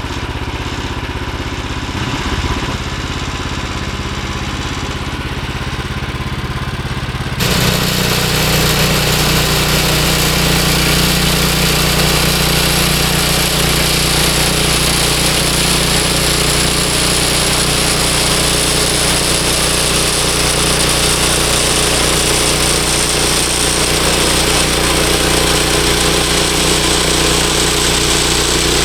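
Bandsaw sawmill's gas engine idling. About seven seconds in it suddenly becomes louder and fuller as it throttles up and the band blade engages, adding a steady high-pitched whine and hiss that continue.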